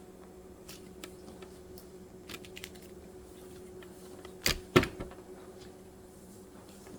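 Light, scattered clicks and taps, with two loud sharp clicks close together a little past four and a half seconds in, over a faint steady hum.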